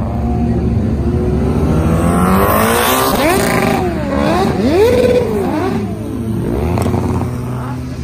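A car engine revving hard as the car pulls away past the spectators, its pitch climbing and dropping several times in quick succession, with a single sharp crack near the end.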